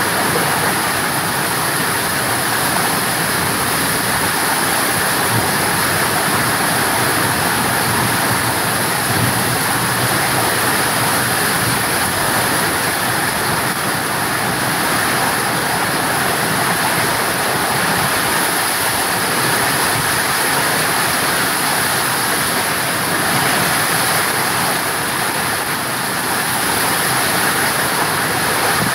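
Steady rain pouring down in a loud, even hiss that holds without a break.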